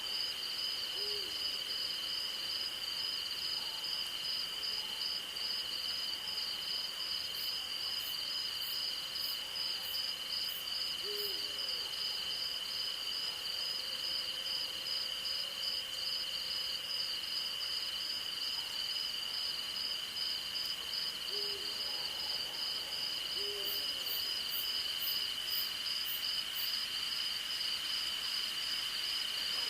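Night insect chorus of crickets, one steady high trill and one faster-pulsing higher trill, with an owl giving four short, low hoots spread through, two of them close together later on. Two brief runs of faint, very high ticking insect calls join in.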